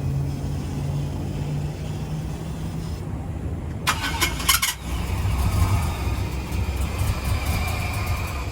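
A vehicle engine is cranked and starts about four seconds in, then runs with a steady low rumble. Before that a low hum is heard.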